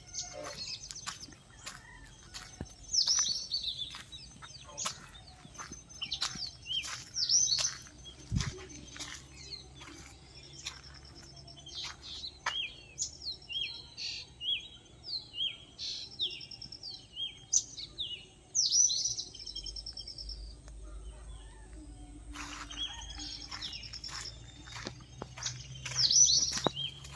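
Several birds chirping and calling, with overlapping short chirps, trills and quick whistles throughout.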